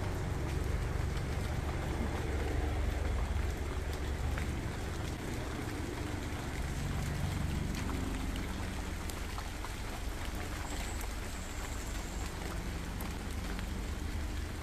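Steady rain falling, with scattered drops ticking, over a low rumble that is louder in the first few seconds.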